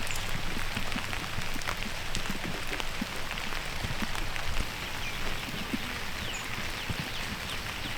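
Steady rain falling, with scattered individual drops heard as light ticks.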